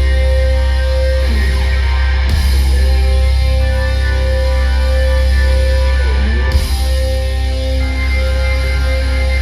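Live rock band playing an instrumental passage, loud: held chords that change every two to three seconds over a heavy, steady bass.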